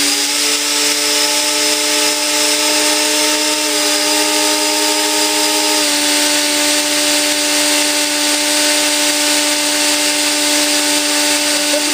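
Three electric ducted fans on a radio-controlled Lockheed L-1011 TriStar model running steadily at half throttle: a loud whine of several steady tones over a rush of air. The pitches shift slightly about six seconds in.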